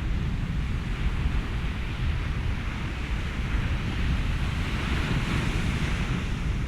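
Ocean waves washing ashore with wind, a continuous rushing hiss over a deep rumble. A wave swells and recedes from about four to six seconds in.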